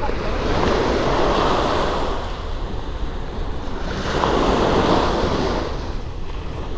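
Sea waves washing onto the shore, two swells of surf about four seconds apart, with wind buffeting the microphone.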